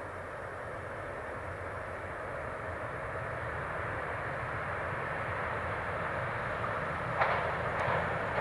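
Passenger multiple-unit train approaching along the track, its running noise growing steadily louder. About seven seconds in there is a sharp clack, then a few more clicks from the wheels on the rails.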